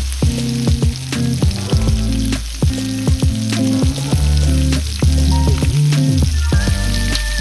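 Food sizzling and frying on a hot pan or griddle, under background music with bass notes and a steady beat.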